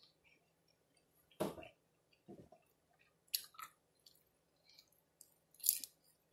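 Close-up chewing of a taco cup with salsa: quiet wet mouth sounds broken by about four short sharp smacks and crunches, the loudest near the end.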